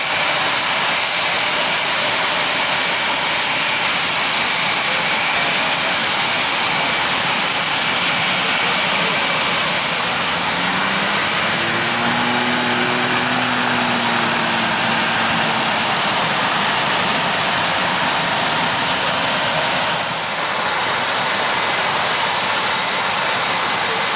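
Combine harvesters and tractors running in a corn field at harvest, a loud, steady machinery din.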